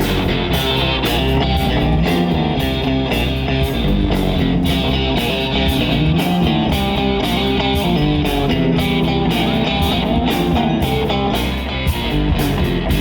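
Rock band playing live: electric guitar over a steady, even beat.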